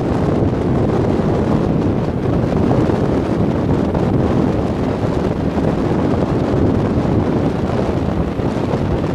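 Typhoon-force wind buffeting the microphone: a loud, steady, deep rumbling gust noise with no let-up.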